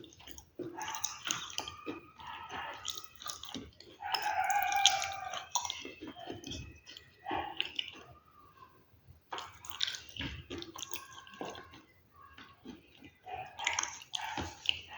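Close-up chewing and biting of crunchy food, many short crackling crunches. About four seconds in, a pitched sound lasting over a second is the loudest part, and a shorter one comes around ten seconds in.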